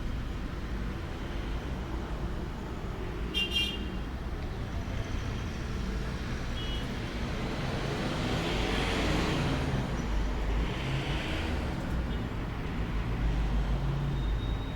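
Outdoor road-traffic ambience: a steady low rumble, with a vehicle passing that swells and fades a little past halfway, and a brief high chirp about three and a half seconds in.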